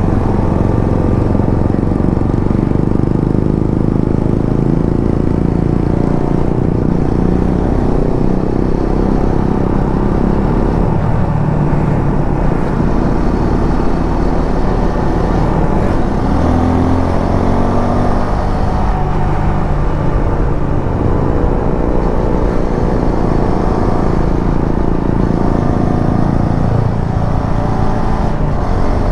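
Suzuki V-Strom 250 SX's single-cylinder engine running under way, its pitch rising and falling as the revs change, over a constant low rumble.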